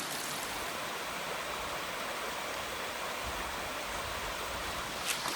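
Creek water flowing, a steady rushing hiss.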